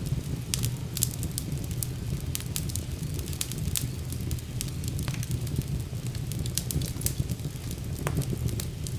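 Wood fire burning in a fireplace: irregular sharp crackles and pops, many each second, over a steady low rumble of the flames.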